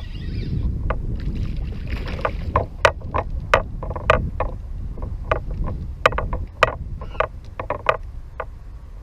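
Irregular hollow knocks and taps against a plastic fishing kayak, some two dozen in quick uneven succession, each with a short ringing tone, over a steady low rumble.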